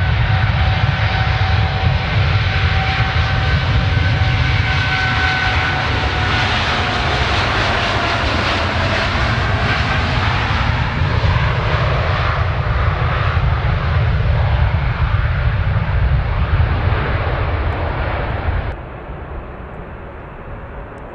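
Jet airliner passing close, a loud steady engine noise with a high whine that falls slightly in pitch. About nineteen seconds in the sound drops abruptly to a quieter rumble.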